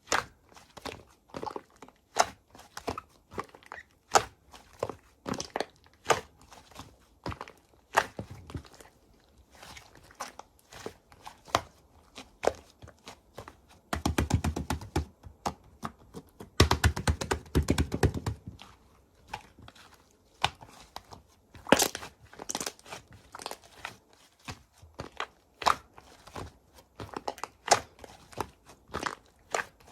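Slime being worked by hand: a steady string of sharp clicks and pops, with two denser, deeper spells of squishing about halfway through.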